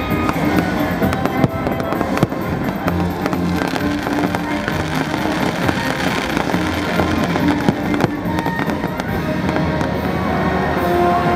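Fireworks going off in quick succession, a dense run of bangs and crackling pops, over the show's music soundtrack.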